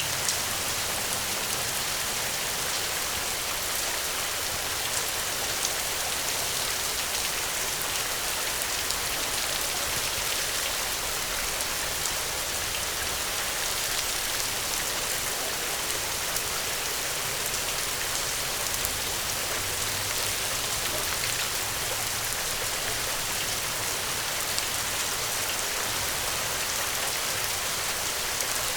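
Steady rain falling, a dense even hiss of drops with many small individual ticks of drops striking a surface.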